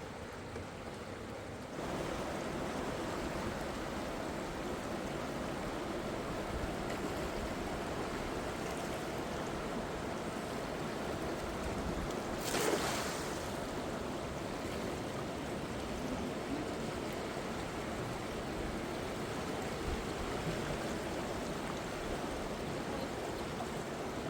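River water rushing steadily; it gets louder about two seconds in, with a short louder burst about halfway through.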